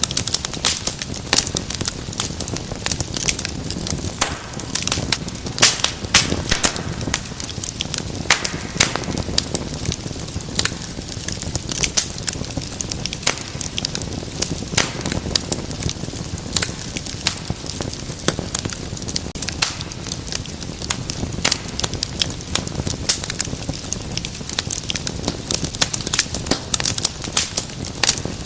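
Wood fire burning with continuous crackling: many sharp, irregular pops over a low steady rumble of flames.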